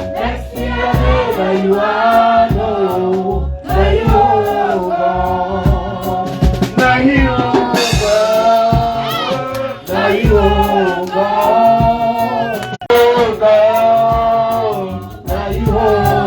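Gospel worship song: several voices singing over a band with a steady drum beat.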